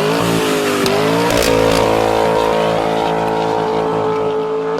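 2012 BMW M3's 4.0-litre V8 revving through a Kinney's Street Demon performance exhaust: the revs climb, dip briefly about a second in, then rise again and are held steady at a high rev.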